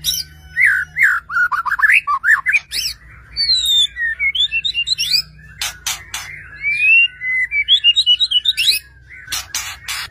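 White-rumped shama (murai batu) singing loudly and without pause: a fast, varied string of rising and falling whistled phrases and trills, with sharp clicking notes a little past the middle and near the end.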